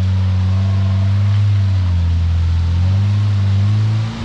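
Off-road vehicle engine running steadily at low revs, close by, its pitch drifting slightly, with a brief dip in level near the end.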